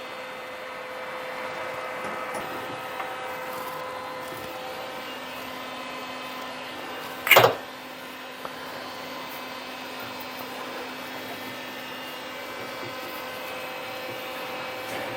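Electric motor of a shop machine running with a steady hum. A single sharp knock comes about seven seconds in.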